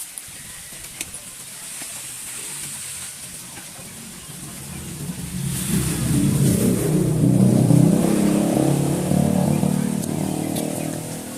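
A motor vehicle's engine that grows louder from about halfway through, peaks, then fades away near the end, as a vehicle passing by or pulling up.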